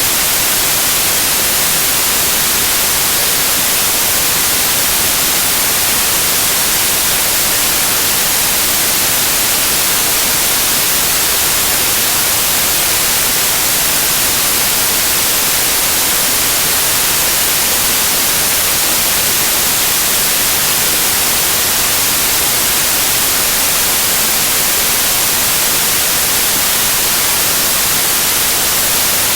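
Loud, steady white noise: an even hiss, brightest in the high end, that does not change.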